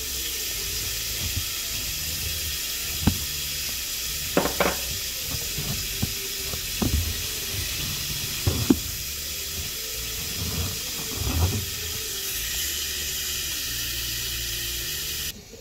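Chopped carrots and onions sizzling in oil in a stainless steel pot: a steady frying hiss, with a few light knocks of a wooden spatula against the pot. The sizzle cuts off suddenly near the end.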